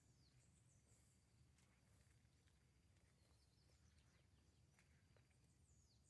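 Near silence: faint outdoor ambience with a few faint, short bird chirps, one near the start and another about five seconds in.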